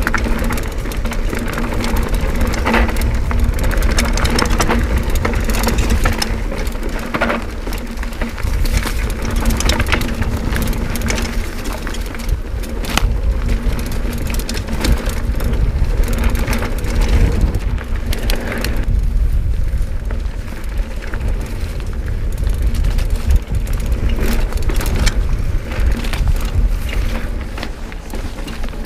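Mountain bike riding fast down a rough trail: tyres rattling over rocks and roots with frequent knocks and clatter, under heavy wind rumble on the microphone.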